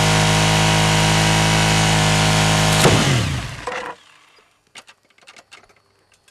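Suzuki SV1000S's 996 cc V-twin held at high revs in a burnout, the rear tire spinning on asphalt. About three seconds in comes a sharp bang, the worn-out rear tire blowing out. The revs then fall away quickly and the sound dies down, leaving a few faint clicks.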